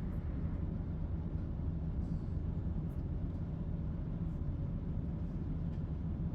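Steady low rumble inside the carriage of a Class 170 Turbostar diesel multiple unit, its underfloor diesel engines running.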